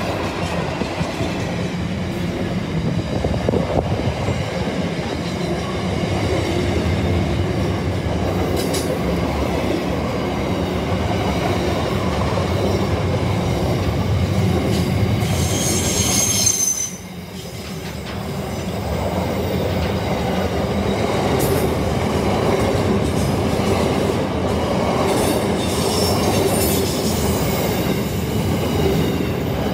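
Container freight train wagons rolling past close by: a steady rumble of steel wheels on rail. About halfway through there is a brief high-pitched squeal, and the noise drops for a moment just after it. Fainter squeaks come near the end.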